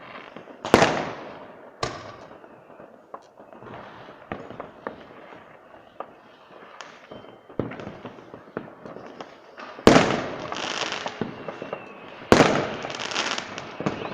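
Fireworks: aerial shells bursting with sharp bangs, the loudest about a second in, near ten seconds and a little after twelve, each followed by a long crackling tail, with smaller pops in between.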